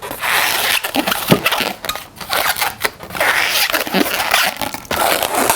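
Red 260 latex twisting balloon rubbing and squeaking in the hands as it is bent and twisted into a bubble: continuous crackly rubbing with short squeaks now and then.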